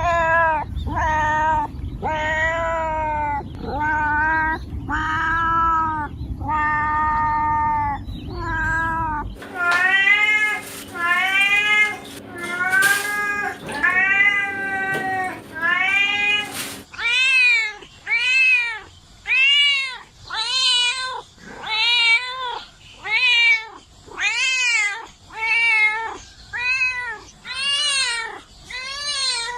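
Domestic cats meowing over and over, about one meow a second, each call rising then falling in pitch. The background changes abruptly about nine and seventeen seconds in, as one cat recording gives way to another, and the last stretch has quicker, higher meows.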